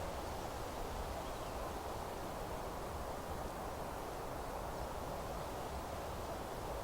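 Steady natural outdoor ambience of a forest clearing: an even rushing hiss with a low rumble beneath, unchanging throughout, with at most faint bird calls in the background.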